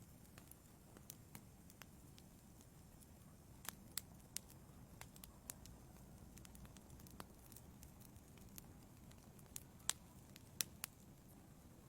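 Wood fire in a fireplace crackling quietly: irregular sharp pops and snaps over a faint low rumble, with a few louder pops about four seconds in and around ten seconds in.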